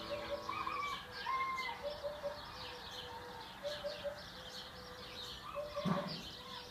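Faint outdoor birdsong: scattered short chirps and calls from several birds, with a dull knock about six seconds in.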